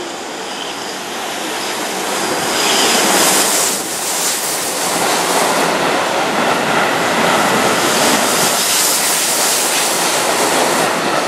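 Keihan 8000-series limited express electric train running along the platform and past close by: a steady rush of wheels on rail and passing cars that swells about two seconds in and stays loud.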